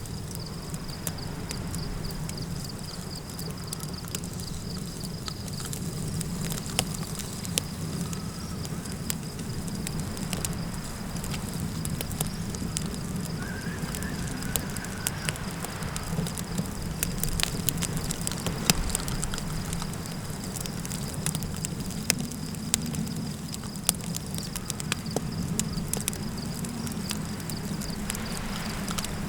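Campfire crackling, with scattered sharp pops and snaps over a steady low wind rumble. A constant high, pulsing insect trill, like crickets, runs under it.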